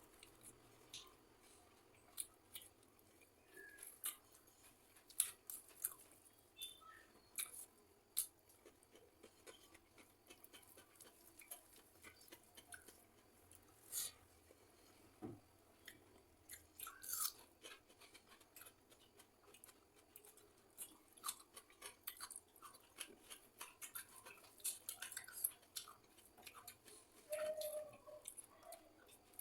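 Close-up chewing and crunching of someone eating boiled eggs with raw radish and onion, heard as many small, irregular crackles and mouth clicks.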